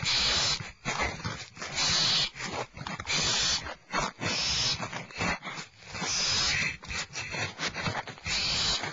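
Barn owl nestlings hissing close to the microphone: long, harsh hissing screeches repeated about every second or so, with scraping knocks between them.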